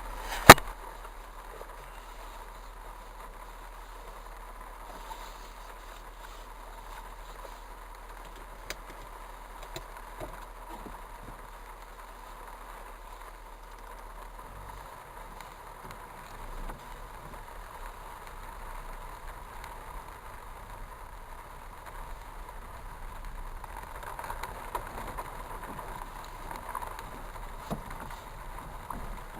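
Steady noise of heavy rain and running water, with one sharp click just after the start.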